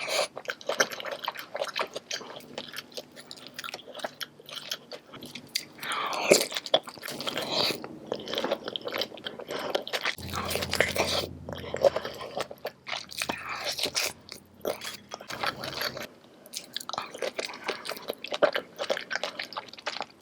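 Close-miked eating sounds of saucy seafood: repeated bites and wet, crunchy chewing, with a low steady hum for a few seconds about halfway through.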